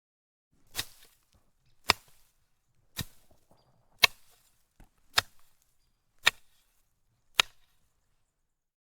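Seven sharp strikes at an even pace, about one a second.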